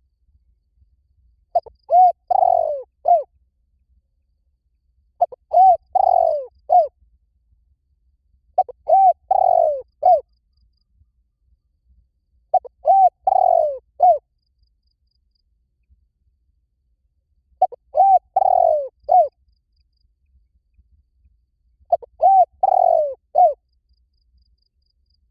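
Spotted dove cooing: six phrases, each a quick run of about four to five soft coos, repeated every three to four seconds.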